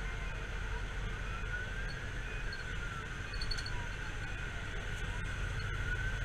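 Fire engine siren on a slow wail, its pitch rising and falling about every four seconds, over the steady low rumble of the truck's engine and road noise.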